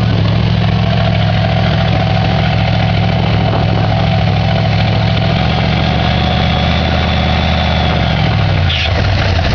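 Monster truck engine idling steadily at a loud, even note, dropping away about a second before the end.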